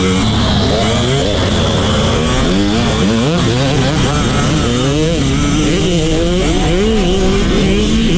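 Dirt bike engines on a motocross track, revving up and down as the bikes ride. Several engine notes overlap, their pitch rising and falling again and again.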